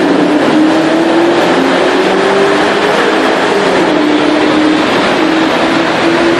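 Supercar engine accelerating hard inside a road tunnel, loud and echoing off the walls. Its pitch climbs, drops once about three and a half seconds in, then holds steady.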